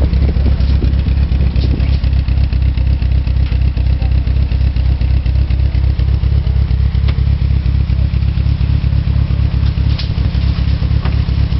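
Mitsubishi 4G63 turbocharged inline-four engine idling steadily.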